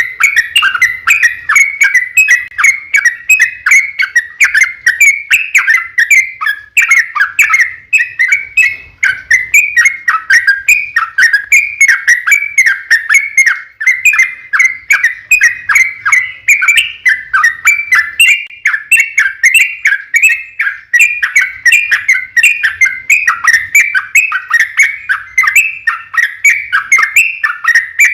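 Yellow-vented bulbul (trucukan) singing a long, unbroken run of rapid chattering notes, several a second.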